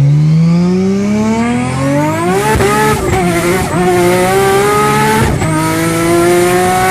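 Nissan Skyline R34 GT-R's twin-turbo RB26 straight-six accelerating hard. The revs climb steadily, then drop briefly at each quick gear change, about two and a half, three and a half and five seconds in, and climb again after each.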